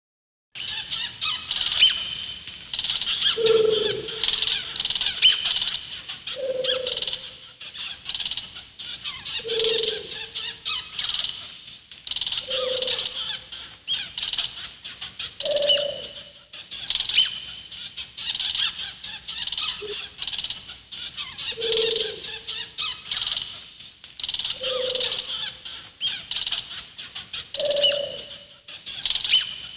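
Synthetic alien-planet bird ambience from the Star Trek original series: dense high chirping and twittering, with a lower call recurring about every three seconds in a repeating loop.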